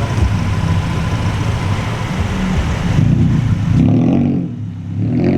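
Vehicle engine and exhaust running while driving, revving up and dropping back about four seconds in.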